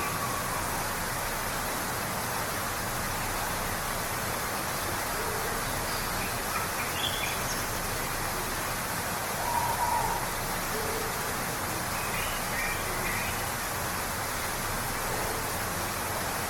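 Waterfall rushing steadily, with birds calling now and then over it: a few high chirps and some lower, short notes.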